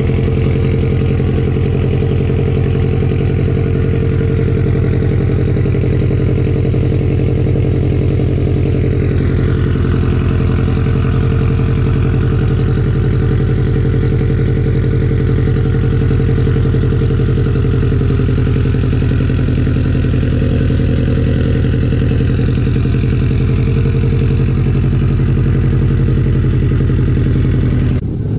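A 2004 Subaru Impreza WRX STI's turbocharged 2.5-litre flat-four idling steadily after a cold start, heard at the large single-tip aftermarket exhaust. The steady sound breaks off abruptly near the end.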